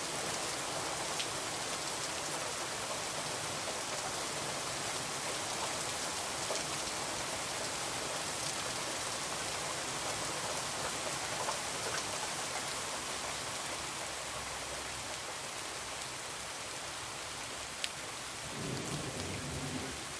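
Heavy rain falling steadily, with a few sharp ticks scattered through it. A low rumble of thunder comes in near the end.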